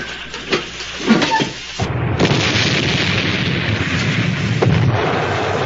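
Loud rush of high-pressure air blowing a submarine's ballast tanks to surface, starting suddenly about two seconds in and holding steady.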